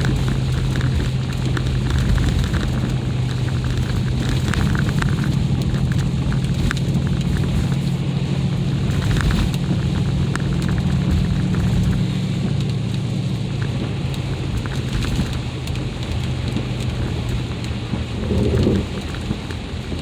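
Mercedes ML SUV driving on an ice-covered road: a steady low engine and road drone, with the tyres rumbling and crackling over ice.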